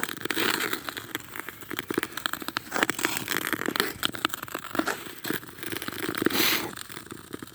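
Footsteps crunching and scraping on snow-covered lake ice: dense, irregular crackles, with a short hissing scrape near the end.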